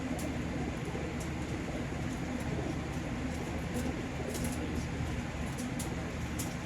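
Racing homing pigeons cooing over a steady low hum, with scattered light clicks.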